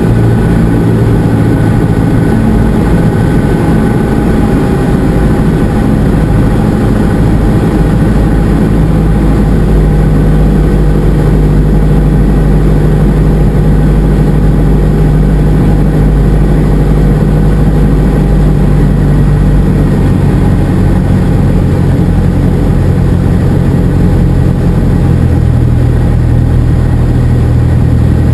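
Cessna 172SP's four-cylinder Lycoming IO-360 engine and propeller running in a steady, loud drone. About 25 seconds in, the engine note steps down to a slightly lower pitch.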